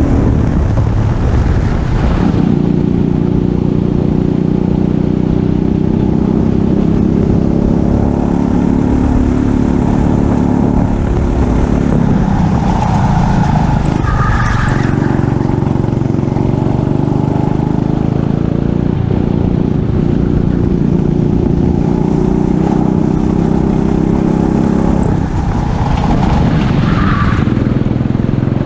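Racing kart engine running hard, its pitch rising and falling with the throttle. Two brief squeals, about halfway and near the end.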